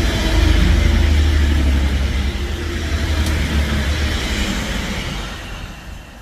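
TransPennine Express Class 185 diesel multiple unit passing at speed. Its low diesel engine hum and rushing wheel and air noise are loudest in the first two seconds, then fade away near the end as the train recedes.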